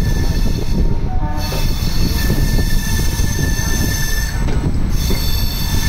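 Indian Railways express passenger coaches rolling slowly into a station as the train arrives. The wheels on the track give a heavy, continuous low rumble, over which runs a high, steady metallic squeal. The squeal breaks off briefly about a second in and again near the end.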